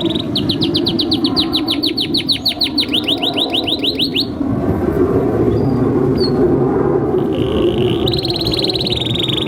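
Domestic canary singing: a fast run of rising high notes, about seven a second, for some four seconds, a pause, then a steady trill near the end, over a steady low background noise.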